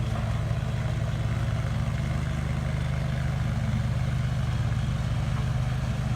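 Four-wheeler (ATV) engine idling steadily, a low even hum.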